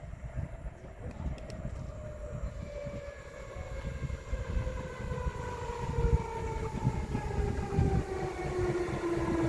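Electric train drawing nearer, its electric whine of several tones falling slowly in pitch as it grows louder, over a low uneven rumble.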